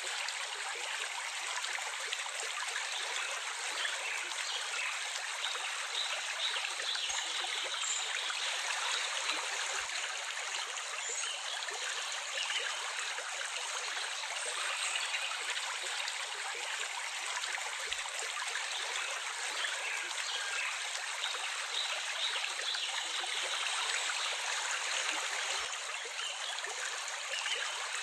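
Running water in a stream, an even, steady rush with no deep rumble.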